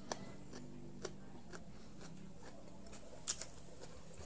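Crunchy chewing of raw vegetables close to the microphone: a few sharp, crisp crunches spread out, the loudest a little over three seconds in.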